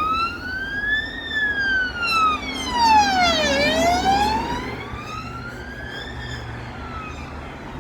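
Emergency vehicle siren wailing, slowly rising and falling in pitch: high about a second in, lowest around three and a half seconds, high again near six seconds. A low road-traffic rumble runs under it.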